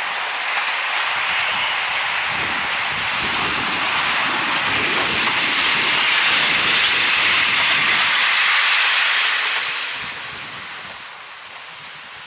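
A train passing: a steady rushing roar of wheels on rail that builds to its loudest about seven to nine seconds in, then fades over the last couple of seconds.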